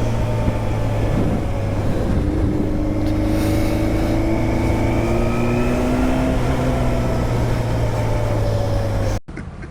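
Motorcycle engine running at a steady cruise, its pitch drifting slightly up and down. It cuts off abruptly near the end.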